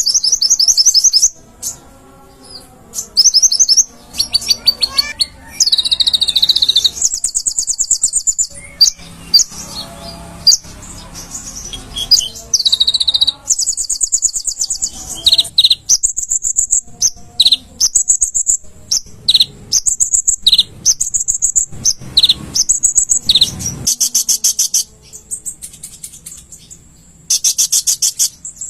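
A konin (kolibri ninja), a small sunbird, singing energetically: rapid, very high trills and sharp chirps in bursts of a second or two, separated by short pauses.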